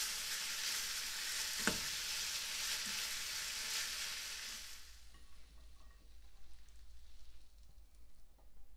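Food frying in a hot pan, a loud sizzle for about the first five seconds that then dies down to a quieter sizzle with light clicks. A single sharp knock about one and a half seconds in.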